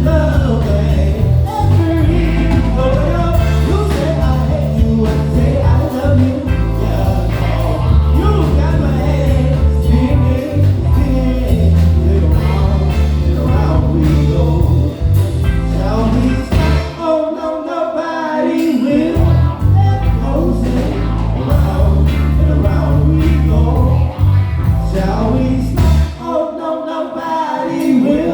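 Live band playing: electric bass, drums and keys under a wavering lead melody line. The bass drops out briefly twice, about two-thirds of the way through and again near the end.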